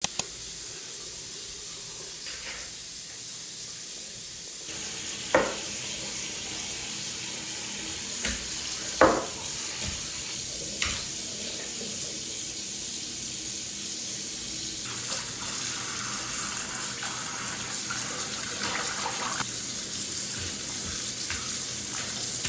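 Water running steadily from a tap into a sink, with a few sharp knocks about five and nine seconds in.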